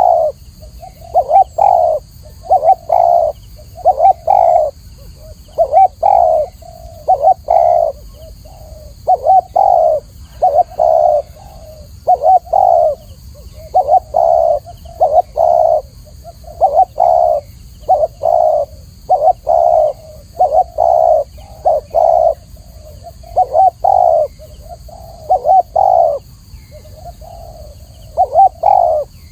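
Spotted dove (Spilopelia chinensis) cooing: loud, clear coos in short phrases of two to four notes, repeated over and over.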